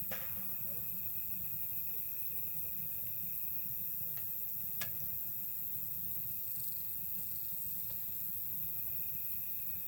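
Wood campfire crackling, with a few sharp pops spread through, over steady night insects chirping in high, even tones and a brief higher trill near the end.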